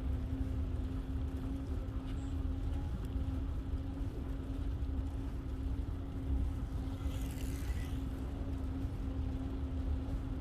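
Wind rumbling over the microphone of a moving bicycle, with a steady low hum throughout and a brief high-pitched sound about seven seconds in.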